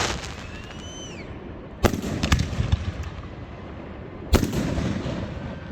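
Fireworks going off: a sharp bang about two seconds in, followed by a quick run of crackling pops, and another sharp bang about four seconds in. Each bang has a rumbling tail that dies away.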